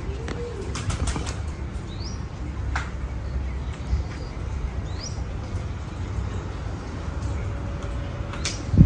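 Outdoor ambience: an uneven low rumble, with a bird giving short, high, rising chirps about three seconds apart. There is a single louder knock near the end.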